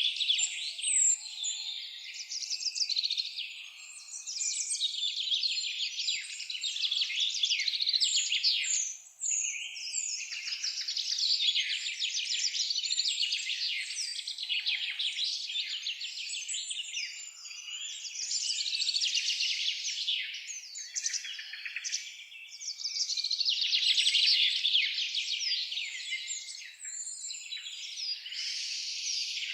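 Dense chorus of many small birds chirping and singing together, swelling and fading in waves, with a brief lull about nine seconds in.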